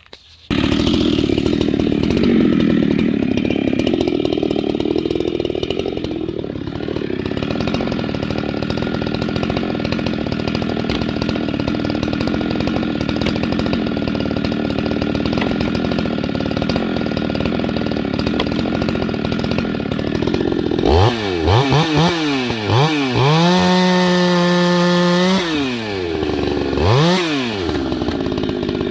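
Ported Husqvarna 390XP two-stroke chainsaw running hard and loud, its pitch wavering as it works for about twenty seconds, then revved up and down freely, held at full throttle for about two seconds, and blipped again near the end. It is a test run on a replacement carburetor.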